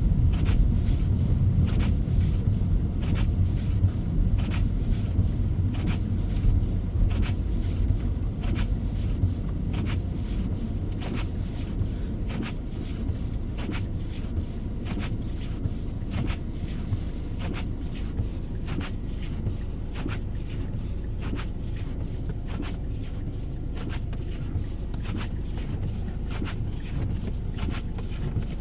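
Car driving on a snow-covered road: a steady low road and engine rumble with many small clicks and ticks.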